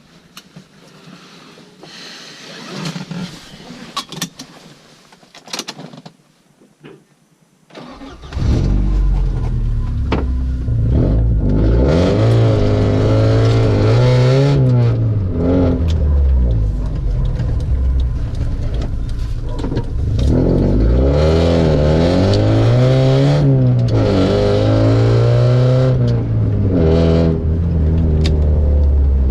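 A few clicks and knocks, then about eight seconds in the straight-piped exhaust of an Opel Frontera SUV starts up loud and runs, its revs rising and falling twice.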